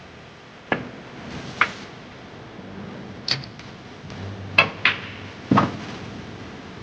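Billiard balls clicking: about six sharp knocks of cue on ball and ball on ball, spaced unevenly over several seconds.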